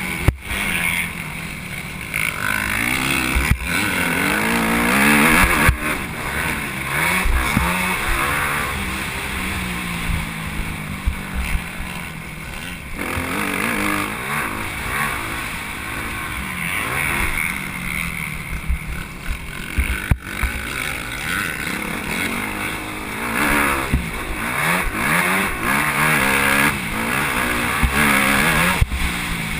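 Motocross bike engine revving up and falling back again and again as the bike accelerates and shifts through the gears.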